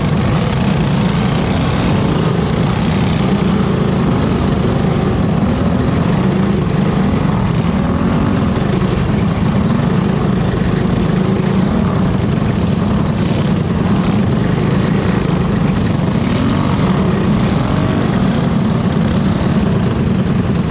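Engines of several junior-class speedway motorcycles running together in a steady drone, their pitch wavering up and down.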